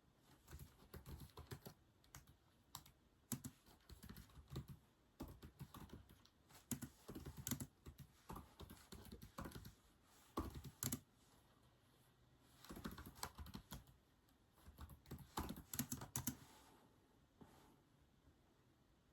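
Typing on a computer keyboard, faint, in quick bursts of keystrokes broken by short pauses; the typing stops about two seconds before the end.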